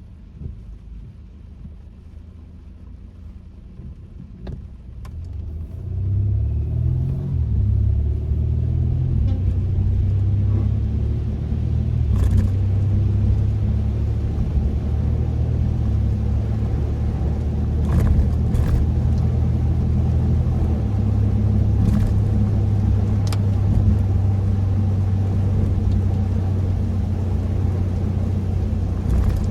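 Kia K5 (DL3) heard from inside the cabin: fairly quiet at first, then about six seconds in a low engine and road rumble builds as the car gets moving and holds as a steady drone that shifts in pitch a few times. A few short clicks sound over it.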